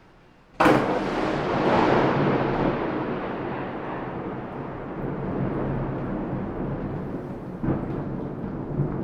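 Thunder: a sudden sharp crack about half a second in, then a long rolling rumble that slowly eases into a steady storm roar, with a smaller crack near the end.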